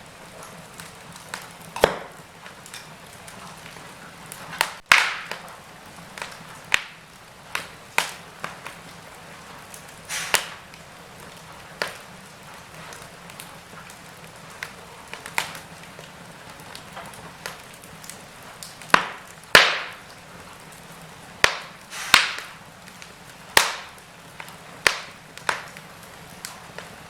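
Wood fire crackling in a fireplace: irregular sharp pops and snaps every second or two over a steady soft hiss of burning, with a few louder pops around five seconds in and near the two-thirds mark.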